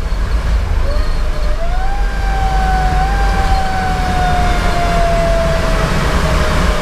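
Federal Q2B mechanical siren winding up about a second in, then slowly coasting down in pitch. Underneath is a steady low rumble from the fire engine's Detroit Series 60 diesel and road noise.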